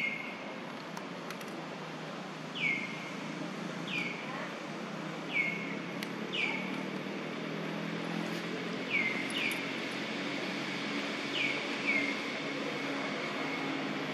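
A bird calling repeatedly: about nine short calls, each dropping sharply in pitch and then holding briefly, at uneven intervals over a steady low background hum.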